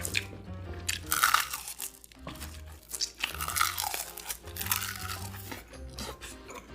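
Close-miked crunchy chewing in three loud bursts, about a second, three seconds and four and a half seconds in, over background music with a steady bass line.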